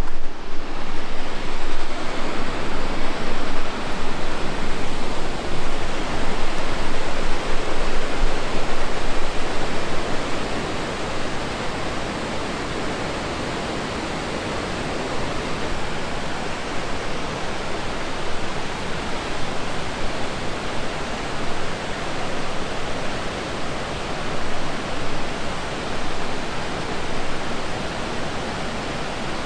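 Steady rushing water of a waterfall in a river gorge, a dense, even sound that is a little louder for about the first ten seconds and then holds at a slightly lower level.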